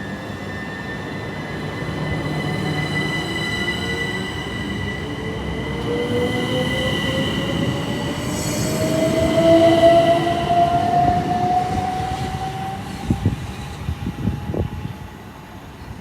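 Southeastern Class 377 Electrostar electric multiple unit pulling away, its traction motors whining and rising steadily in pitch as it accelerates, loudest about two-thirds of the way through. A few sharp clicks follow near the end as the sound fades.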